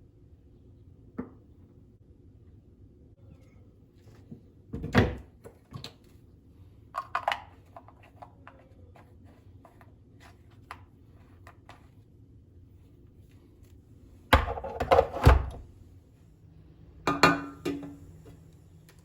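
A series of thuds and knocks from household objects being handled and set down, in small loud clusters about 5, 15 and 17 seconds in, over a faint steady hum.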